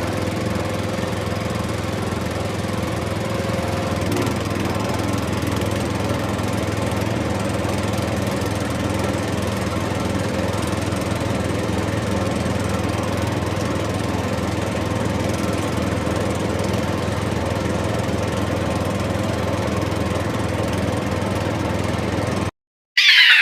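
A tractor-type engine running steadily at an even idle, with no change in speed, cutting off suddenly near the end.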